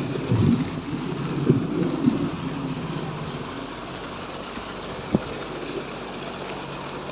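Wind buffeting the microphone, gustiest in the first couple of seconds and then settling to a steady low rumble, with one sharp knock about five seconds in.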